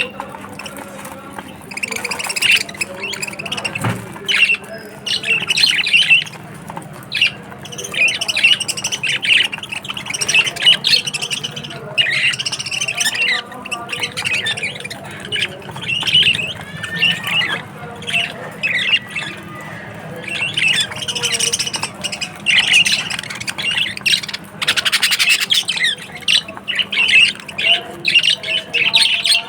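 A flock of budgerigars chattering and squawking, with many short, overlapping calls that rise and fall in busy clusters.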